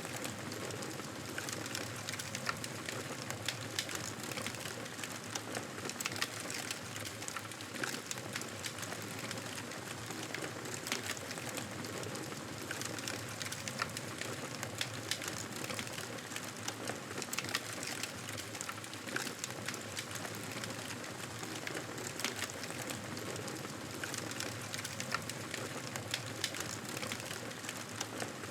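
Wood fire in a fireplace crackling steadily, with a constant soft hiss and frequent small sharp pops.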